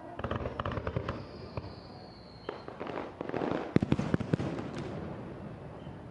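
Aerial fireworks bursting in quick volleys of sharp cracks and crackles, with a high thin whistle that drops slightly in pitch about a second in. The densest, loudest crackling comes around four seconds in.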